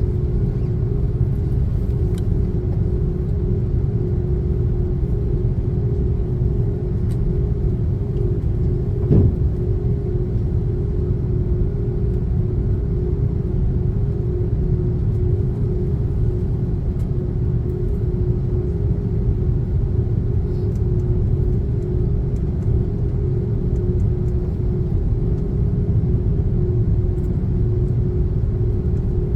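Airbus A330-300 cabin noise: a deep, steady rumble with a constant hum above it. There is one short knock about nine seconds in.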